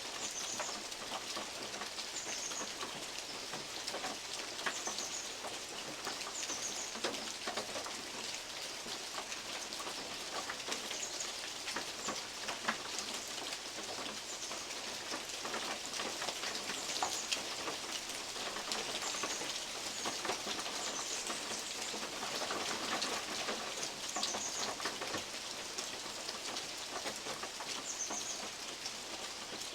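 Steady rain, with large drops falling from oak leaves and ticking irregularly on a metal roof. A bird gives short high chirps every few seconds throughout.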